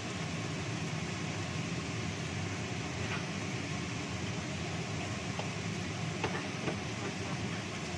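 Shredded cabbage and carrot frying in a wok over a gas burner: a steady rumbling hiss with a few faint ticks.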